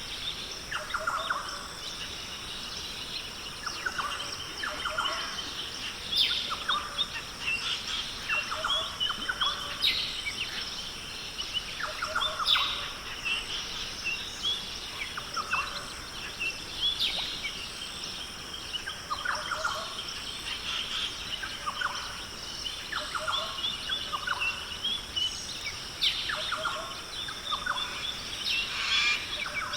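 Rainforest birds calling, with short calls recurring every two to three seconds over a steady high-pitched drone.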